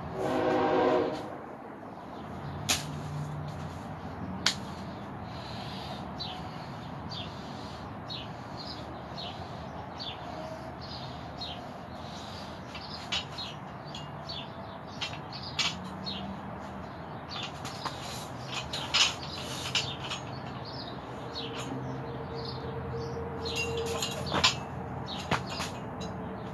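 Small birds chirping repeatedly over a steady background hiss, with a few light clicks. A short, loud pitched sound comes in the first second.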